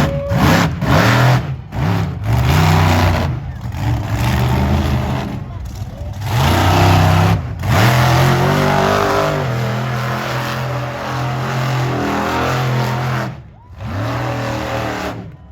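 Monster truck engine revving hard in repeated throttle bursts, cutting out briefly between them. About halfway through it is held at a steady high pitch for several seconds, then dropping near the end.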